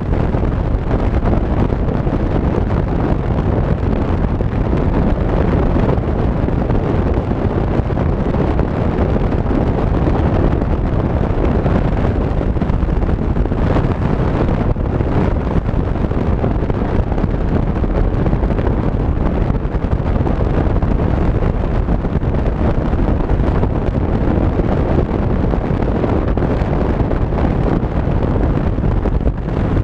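Steady, heavy wind rumble on the microphone of a moving Honda PCX 125 scooter.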